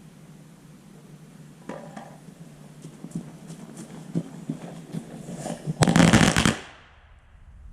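A firework going off as a run of small firecracker pops: scattered pops and crackles, then a quick cluster of bangs lasting under a second near the end, and it stops. It sounds like about ten Black Cat firecrackers in a row rather than one big explosion.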